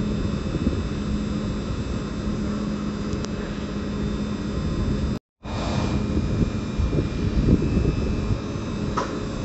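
Train noise close by on the tracks: a steady, loud rumble with faint steady whining tones over it. It cuts out for a split second about five seconds in and then continues, with a short sharp click or squeal near the end.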